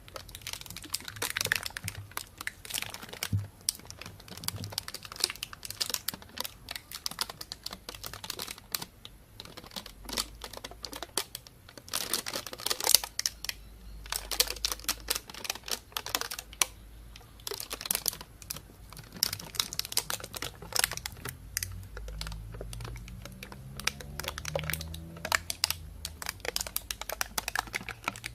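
Plastic bag crinkling and rustling as it is handled: a dense, irregular run of crisp crackles close to the microphone, with a low hum coming and going underneath.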